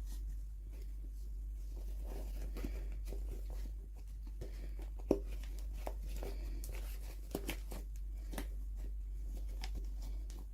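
Toy packaging being opened and handled by hand: soft rustling, crinkling and tearing with small plastic clicks, one sharper tick about halfway through, over a steady low hum.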